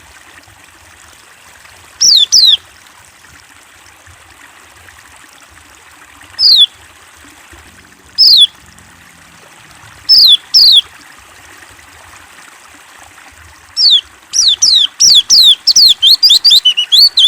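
Tengkek buto, a kingfisher, calling: sharp, high, downward-sliding notes, alone or in pairs every couple of seconds, which break into a rapid run of notes near the end. A steady faint hiss like running water lies under the calls.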